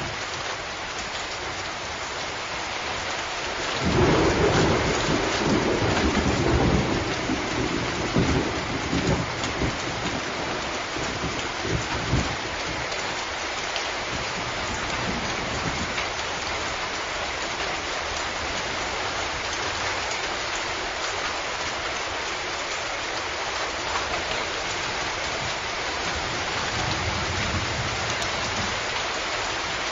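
Steady heavy rain falling on a surface, with a roll of thunder that breaks in suddenly about four seconds in and rumbles away over the next several seconds.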